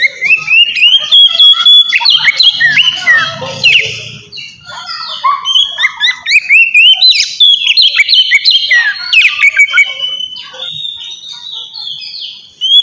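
Oriental magpie-robin (kacer) singing loudly: a fast, varied run of whistled notes and rising slurs, breaking briefly about four and a half seconds in and again near the end.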